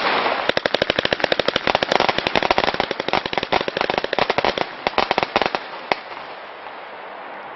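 Weco 'Dynasty' compound fireworks battery firing its last shots: a rapid volley of sharp bangs, several a second, that stops about five and a half seconds in, then one last single shot. Afterwards a steady hiss remains.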